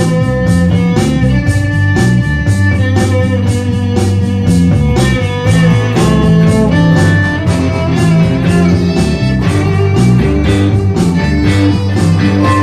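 Band music: guitars and bass over drums keeping a steady beat, with no words sung.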